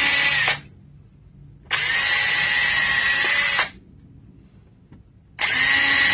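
Electric drill running in bursts of about two seconds with a steady whine, boring pilot holes for trim nails into a treated 2x4. One burst stops about half a second in, a second runs from about two to three and a half seconds in, and a third starts near the end.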